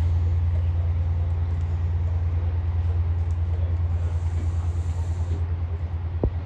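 Chiltern Railways train of Mark 3 coaches pulling away, a deep steady diesel drone with a fine rapid pulse slowly fading as it moves off. A single sharp click near the end.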